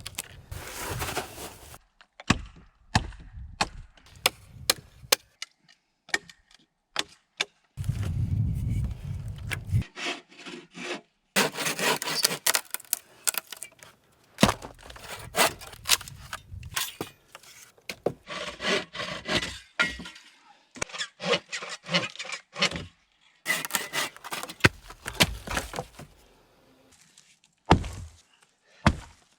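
Wood being broken and worked by hand: a run of sharp cracks and knocks, with stretches of scraping and rubbing in between.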